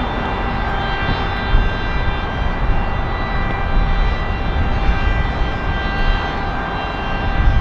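Jet airliner engines running steadily: a broad roar with a high whine from the turbofans.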